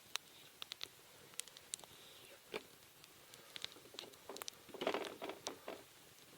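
Kitchen knife slicing raw red sea bream thinly on a cutting board: scattered light clicks and taps of the blade meeting the board, with a denser bout of knocks and handling about five seconds in.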